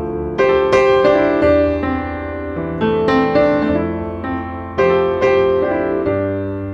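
Piano music: chords and melody notes struck every half second or so over a sustained bass, each note decaying after it is struck.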